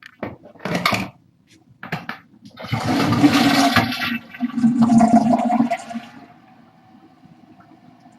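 A toilet flushing: a few short knocks and rustles, then a loud rush of water for about three seconds that dies down into the quieter steady hiss of the tank refilling.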